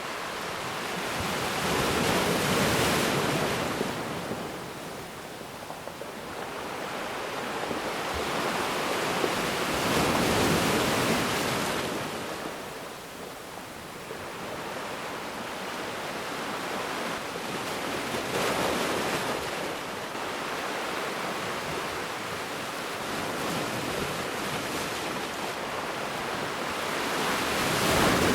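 Ocean waves washing onto a beach, the surf swelling and fading in slow surges several seconds apart, with three louder swells, the last near the end.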